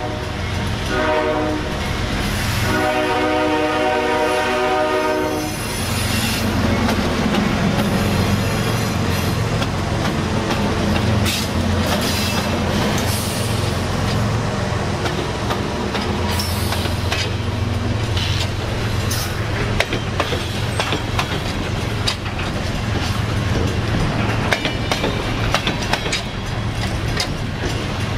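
Nathan K5HL five-chime horn on a CSX ES40DC diesel locomotive sounding three blasts, the last one long, and stopping about five seconds in. The freight train then rolls past with a steady low rumble of locomotive diesels, wheel clatter over rail joints and occasional faint wheel squeal.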